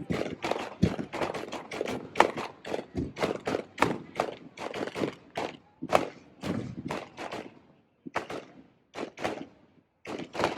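Fireworks display going off in rapid succession: a dense string of bangs and crackles, several a second, with a short lull about eight seconds in.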